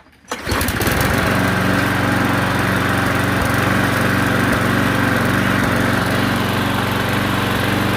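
Petrol push-mower engine pull-started, catching about half a second in on the first pull and then running steadily at a constant speed.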